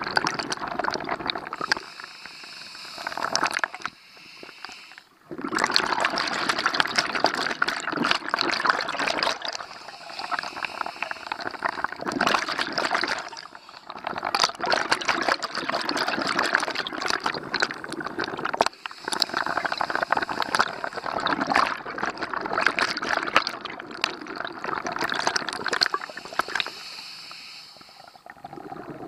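Scuba diver's exhaled bubbles rushing and crackling out of the regulator, in long bursts several seconds long broken by short pauses for breath.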